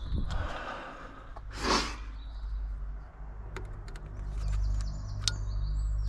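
Scattered small clicks from hands working at a stubborn plastic trim clip, over a low steady hum. A breathy exhale comes about a second and a half in, and high chirping comes in over the second half.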